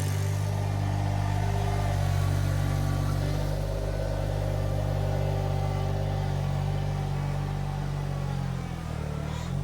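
Iron Rhino IR1200 mini skid steer's engine running steadily while it works, moving mulch with its bucket. Near the end the engine pitch dips briefly and comes back up.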